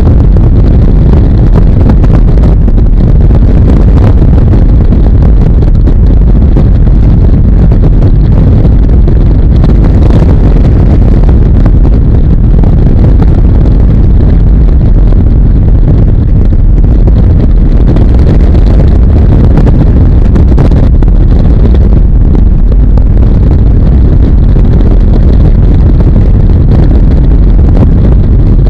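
Harley-Davidson motorcycle riding at speed: steady, loud low rumble of engine and road mixed with wind rushing over the microphone.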